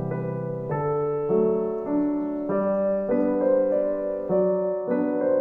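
Background piano music: a slow, gentle melody of sustained notes changing about every half second.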